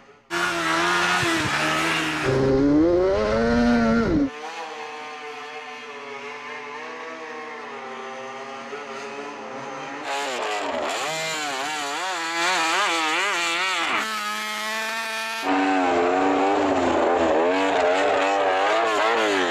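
A Honda RC213V MotoGP bike's V4 engine revving, its pitch rising and falling, in abrupt edited segments: loud revving at the start, a quieter steadier stretch, then wavering revs and hard revving again near the end.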